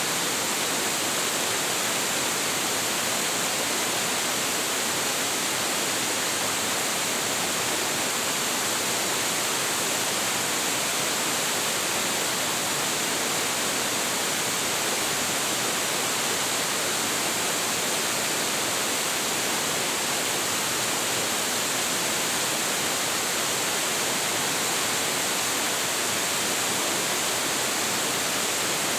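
Large waterfall pouring steadily, an even unbroken rush of falling water with no other events.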